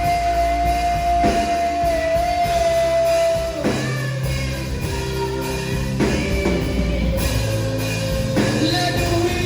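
Slow worship music from a band: long held notes over a steady bass line, with a new chord struck about every two and a half seconds.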